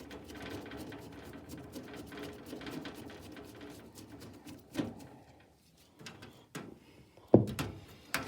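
Handling noise from working on an old box fan and its parts: rustling with many small clicks, a knock about five seconds in, and a loud thump near the end.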